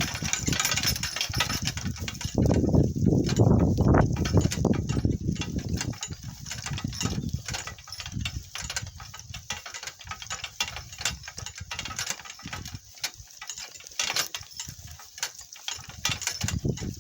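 Donkey cart jolting over rough ground, rattling and knocking steadily, with a heavy low rumble for a few seconds about two seconds in.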